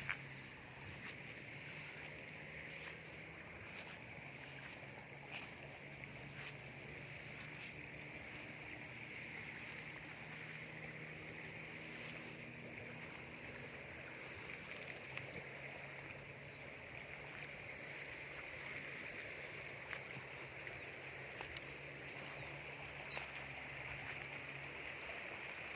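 Steady outdoor field ambience: a continuous high-pitched chorus, with scattered faint chirps above it and a low hum that fades in and out.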